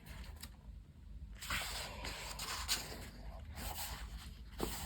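Paper pages of a colouring book being turned by hand, with several brief rustles.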